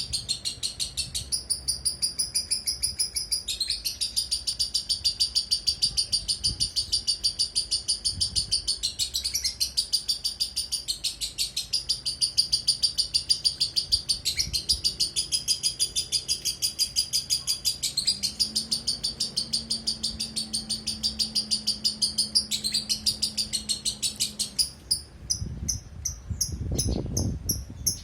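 Lovebird chirping rapidly and without a break, about five high-pitched chirps a second, in phrases a few seconds long. Near the end a low rumbling noise comes in under the chirps.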